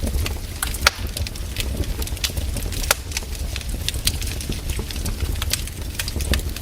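Wood campfire burning: irregular crackles and snaps of burning wood over a low steady rumble, with sharper pops about one second in and near three seconds.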